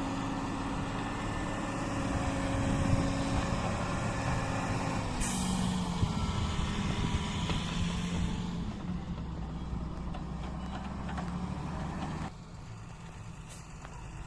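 Heavy diesel engines of an excavator and dump truck running steadily, with a burst of hissing air starting about five seconds in and fading over a few seconds. The engine sound drops off suddenly about twelve seconds in.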